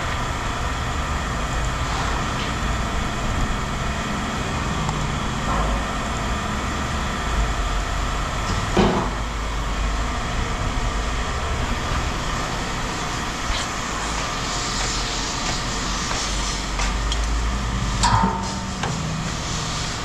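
Engine of a large vehicle running steadily, with a sharp knock about nine seconds in and another near the end.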